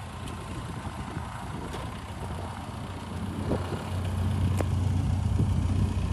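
Heavy machine's diesel engine running steadily with a low hum, getting louder about four seconds in.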